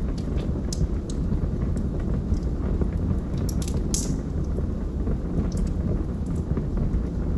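Wood fire burning in a fireplace: a steady low rumble of the flames with scattered crackles and pops, the sharpest of them about four seconds in.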